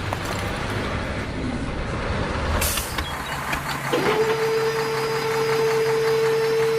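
Small motor running with a steady high whine that starts about four seconds in, over a rough mechanical rumble, with a short hiss about halfway through.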